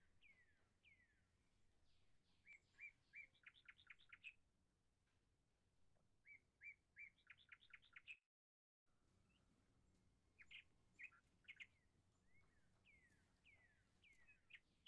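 Faint birdsong: downslurred whistled chirps and quick runs of short notes, repeating in phrases, with a brief dropout a little past halfway.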